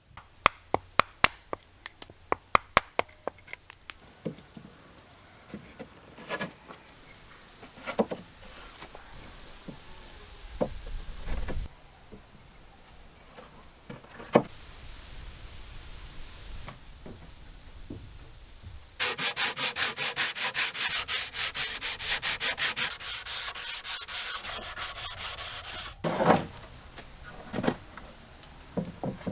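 Wood being worked by hand: a quick run of sharp taps, a few scattered knocks, then a long stretch of fast, even rubbing strokes on wood, like sanding or rasping, followed by a couple of knocks near the end.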